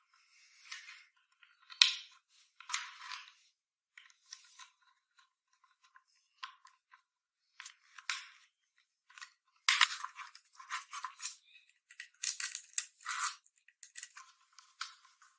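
Irregular short scrapes and clicks of small hand tools or parts being handled, thinner and denser about ten to thirteen seconds in, with a thin, bass-less sound throughout.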